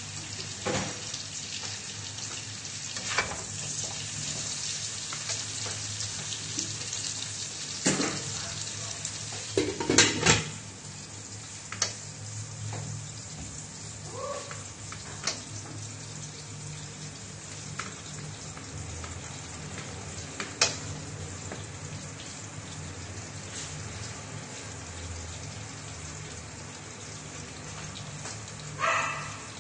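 Food sizzling as it fries in a wok over a gas flame, with a few sharp clanks of cookware; about ten seconds in, a couple of loud clanks as the lid goes on, after which the sizzling is quieter and muffled.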